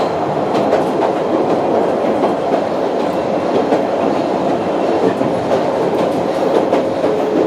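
Sangi Railway Hokusei Line narrow-gauge train heard from inside the passenger car while running: steady wheel-and-rail noise with scattered clicks as the wheels pass over rail joints.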